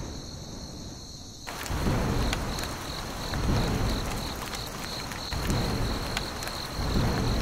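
Rain falling, filling in about a second and a half in, with low rolls of thunder swelling and fading every second or two. A steady high chirping of crickets runs underneath.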